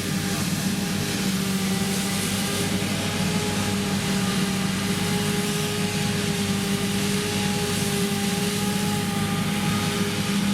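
Krone Big X 1100 self-propelled forage harvester running steadily at full power while chopping triticale: a constant engine hum with steady tones over the rushing noise of the chopping crop flow. Its Liebherr V12 diesel runs under heavy load.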